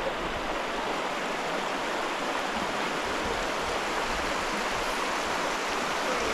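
Rushing water of a river or falls: a steady, even rush that holds constant throughout.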